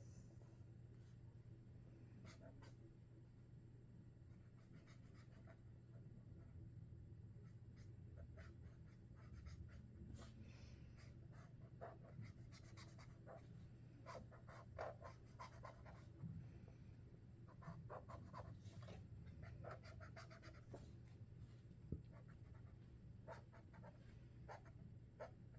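Faint sound of Sharpie Creative Marker tips drawing on paper: many short strokes and dabs, often in quick runs, over a steady low hum.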